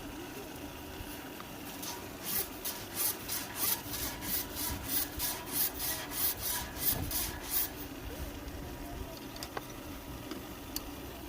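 Repeated rubbing strokes, about three a second, for about five seconds starting about two seconds in.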